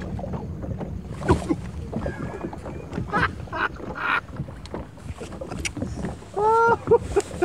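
Sounds aboard a bass boat on the water: a steady low hum and light wind under scattered short knocks and rustles from the anglers casting, with a brief voice-like sound about a second before the end.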